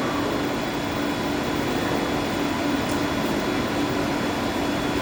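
Steady drone of boiler-house machinery, with an even hum.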